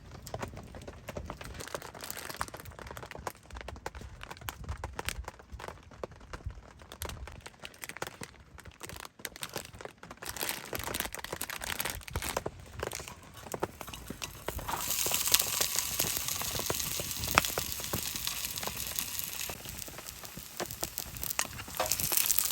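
Small clicks and crinkling of food and cookware being handled. About fifteen seconds in, food starts sizzling as it fries in a hot pan.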